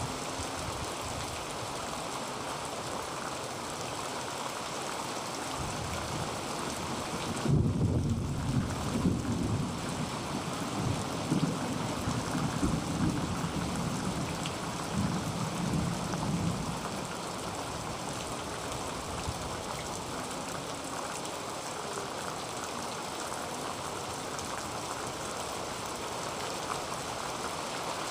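Heavy rain falling steadily on a tin roof, with a low roll of thunder starting about eight seconds in and rumbling on for roughly ten seconds before fading back into the rain.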